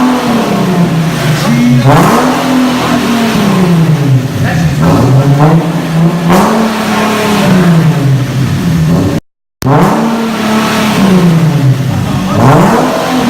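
Car engine revved repeatedly in the open air, its pitch climbing and falling back several times a few seconds apart. The sound drops out briefly about nine seconds in.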